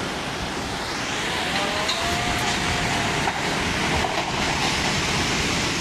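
Floodwater rushing in a steady, loud wash of noise. A faint tone wavers in pitch about two seconds in.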